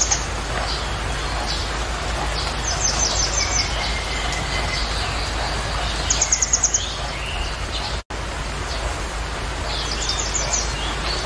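A bird calling a quick trill of high chirps three times, about every three and a half seconds, over a steady hiss.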